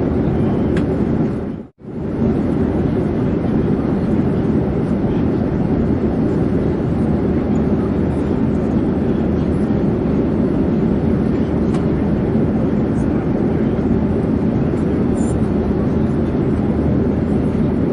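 Steady, even rumble of an airplane in flight, a continuous wash of engine and air noise heavy in the low end. It briefly fades out to silence and back about two seconds in.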